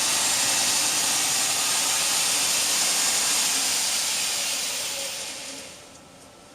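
2x72 belt grinder with a 3,480 rpm motor running, a loud steady hiss of the abrasive belt over its wheels. About five seconds in it is switched off and fades away as it coasts to a stop.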